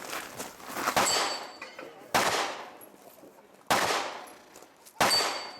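Four single shots from a pistol-caliber carbine, deliberately spaced about 1.1 to 1.5 seconds apart, each with a long echoing tail. A thin high ring follows the first and the last shot.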